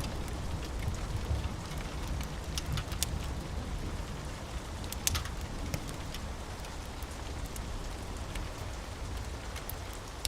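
Steady rain with a low rumble underneath and scattered sharp clicks, strongest a few seconds in.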